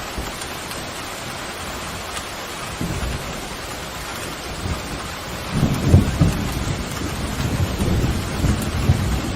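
Steady rain with a thunder rumble that rolls in about halfway through and grows louder toward the end.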